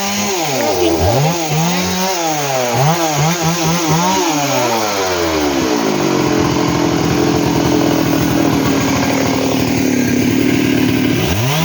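Two-stroke chainsaw revved up and down several times in quick succession, then held at a steady high speed, its pitch dropping off near the end.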